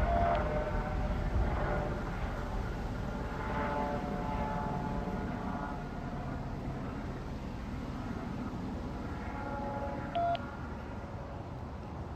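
Sheriff's helicopter flying overhead, a steady low rotor rumble with faint steady whining tones over it. A short radio beep sounds right at the start and again about ten seconds in.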